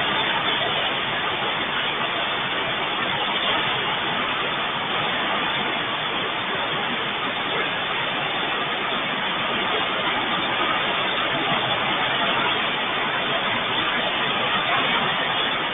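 Heavy rain falling in a steady, even hiss with no pauses.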